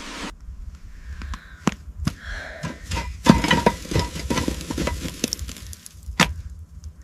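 Irregular hand-tool and parts-handling sounds: scattered sharp clicks and knocks with short stretches of scraping. The loudest knock comes about three seconds in.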